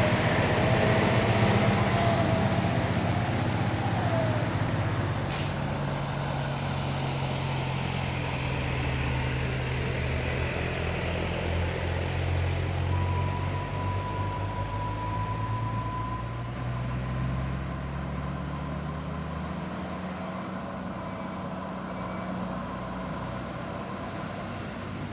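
Heavy diesel tronton (6x4) truck engine running steadily under load, slowly getting quieter. There is a single sharp click about five seconds in.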